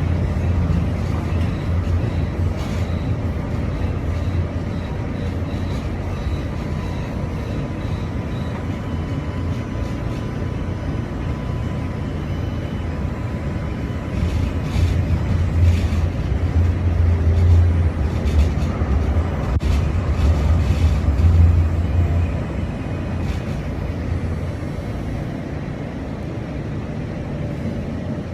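Train running, heard from inside the carriage: a steady low rumble that grows louder for several seconds about halfway through, then eases.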